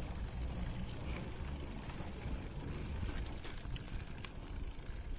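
Mountain bike being ridden along a dirt trail: a steady low rumble of tyres and wind on the microphone, with a few light clicks.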